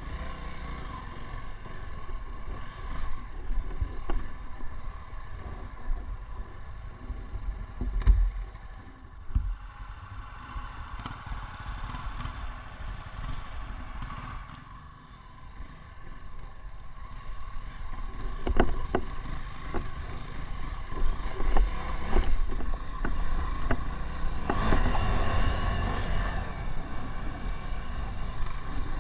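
Single-cylinder engine of a Honda Tornado 300 trail motorcycle working on a rocky off-road climb, its revs rising and falling. Sharp knocks and clatter come from the bike over stones, with the engine louder through the last third.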